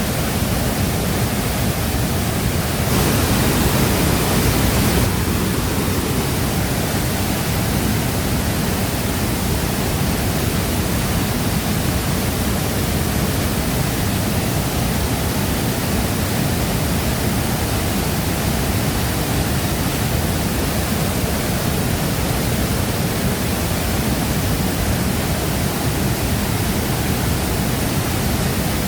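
Waterfall crashing into its pool: a steady, dense rush of falling water, swelling slightly for a couple of seconds about three seconds in.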